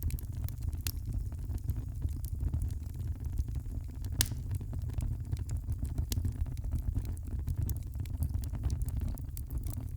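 Wood fire crackling in a fireplace: irregular sharp pops and snaps over a steady low rumble of the flames, with one louder pop about four seconds in.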